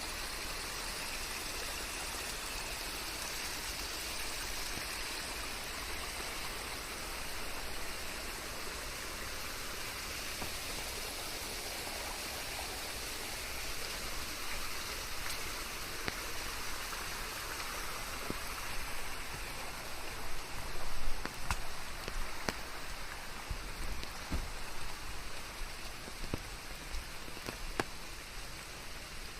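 Steady rain falling, an even hiss, with individual drops hitting a surface more distinctly as clicks in the second half, briefly louder a little past two-thirds of the way through.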